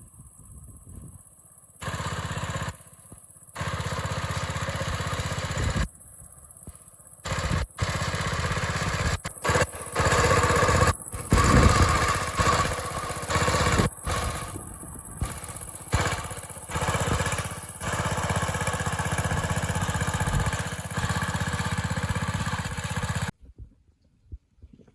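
An engine running steadily, heard in short pieces that start and stop abruptly many times, then cuts off shortly before the end.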